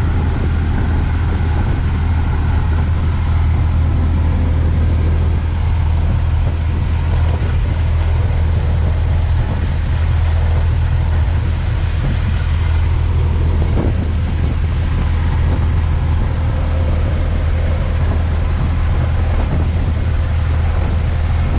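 1920 Ford Model T's four-cylinder engine running with road and wind noise as the car drives steadily at cruising speed, heard from inside the open cab as a constant low rumble.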